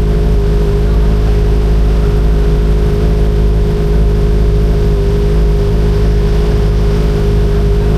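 Kawasaki ZX-25RR's 249 cc inline-four engine running at a steady pitch while the motorcycle is ridden, exhaust note holding even throughout.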